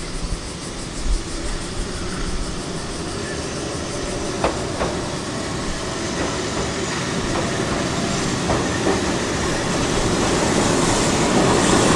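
Two-car Keihan 600 series electric train approaching on street track, its rolling noise steadily getting louder, with a few sharp wheel clicks over the rails midway.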